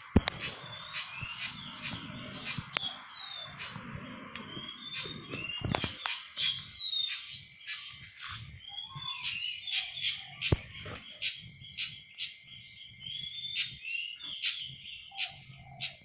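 Birds chirping: many short, high notes and quick rising and falling chirps, several a second, with some low rumbling underneath.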